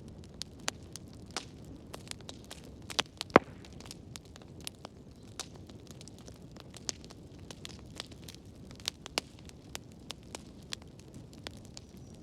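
Wood fire crackling: a low steady rumble of burning with frequent irregular sharp pops and snaps, the loudest two close together a little after three seconds in.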